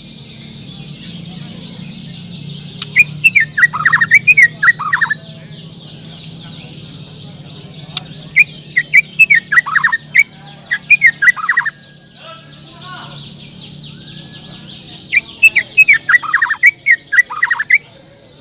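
A white-rumped shama (murai batu) singing in three loud bouts of quick, sweeping whistled phrases. Behind it, many other birds keep up a steady chirping chorus.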